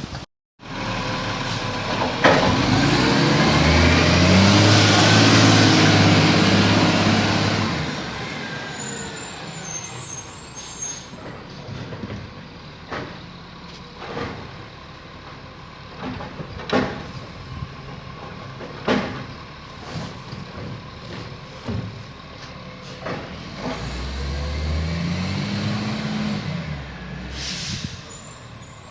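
Garbage truck's diesel engine revs hard for several seconds, then an air brake hisses. The truck idles with scattered sharp clunks, revs again with rising pitch, and gives another air-brake hiss near the end.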